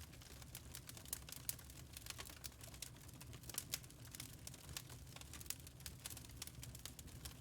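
Wood fire crackling in a fireplace: many irregular small snaps and pops over a steady low rumble.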